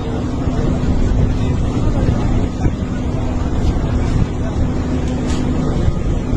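Steady low rumble of a running engine, with wind buffeting the microphone.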